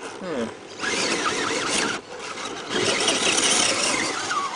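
Electric 10th-scale RC crawler truck's motor and gears whining in two bursts of throttle, one about a second in and a longer one from near the three-second mark, as the truck works over the course.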